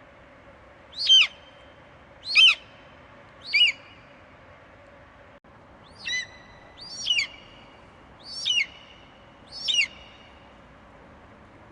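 Eagle screeching: seven short, high calls, each sliding down in pitch, repeated about once every second and a quarter.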